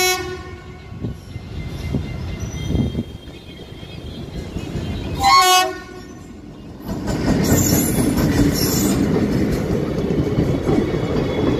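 Diesel locomotive horn: the end of one blast right at the start and a second short blast about five seconds in. Then, from about seven seconds, a loud steady rumble of a passenger train's coaches passing close by.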